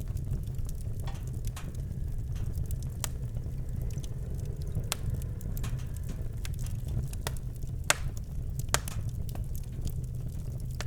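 Campfire crackling: scattered sharp pops and snaps at irregular intervals, the loudest about eight seconds in, over a steady low rumble.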